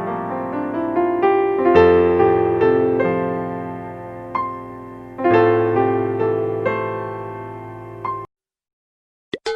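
Piano music clip: chords struck and left to die away, re-struck several times, then cut off abruptly about a second before the end. After a brief silence, a sharp strike near the end starts a short ringing tone.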